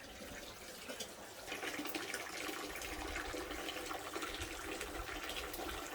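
Water running steadily from a tap or pipe outlet, the flow getting louder about a second and a half in. The stream is weaker than it used to be, which is put down to a tap left open further down the line.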